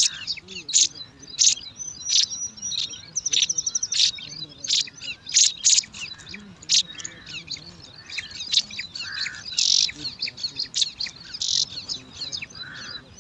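Bar-winged prinia (ciblek) nestlings begging for food: a dense stream of short, high chirps from several birds at once, with a brief rapid trill about three seconds in.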